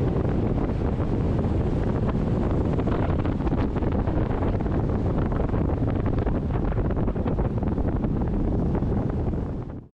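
Steady rushing of a waterfall in flood, with wind buffeting the microphone; it cuts off just before the end.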